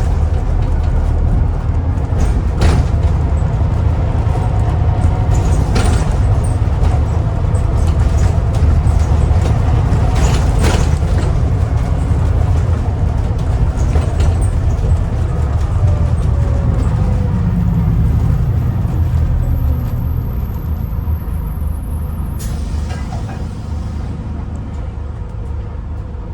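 Scania N250UD Enviro400 MMC double-decker bus heard from inside the cabin: the Scania diesel runs with a deep rumble and interior rattles. In the second half the engine note falls and the sound eases off as the bus slows. There is a sharp click near the end.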